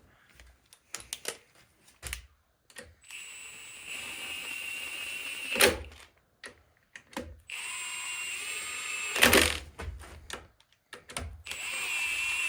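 Impact wrench running bolts down three times, each run a steady whine lasting a few seconds and ending in a short burst of hammering as the bolt snugs up. Light metal clicks come between the runs.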